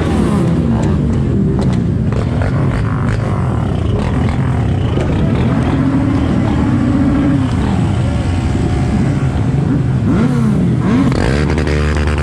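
Motorbike and quad bike engines running, with several revs rising and falling in pitch.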